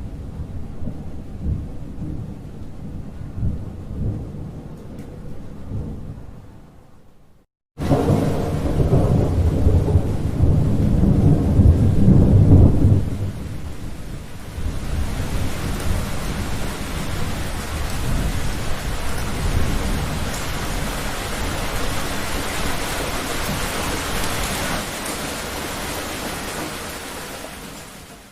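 Thunder rumbling low and fading out about seven seconds in. After a brief silence, a new loud thunderclap breaks and rolls on for several seconds, then gives way to steady heavy rain with a weaker rumble beneath it, fading out at the end.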